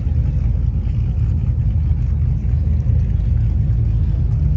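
A vehicle engine idling nearby: a steady, even low rumble.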